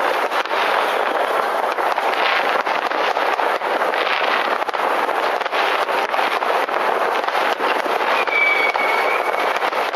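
Many fireworks going off at once: a dense, unbroken crackle of bangs and pops, with a short whistle about eight and a half seconds in.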